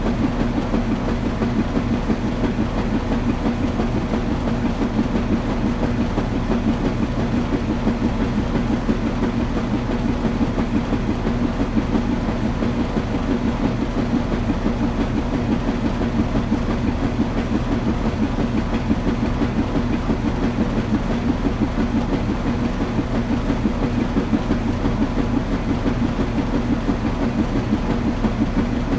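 Washing machine running: a steady machine hum with a fast, even pulsing churn.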